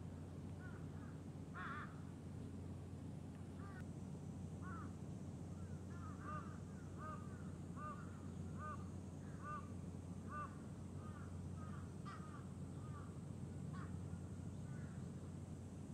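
A bird calling outdoors: a string of short call notes, about two a second, most regular through the middle, over a steady low hum.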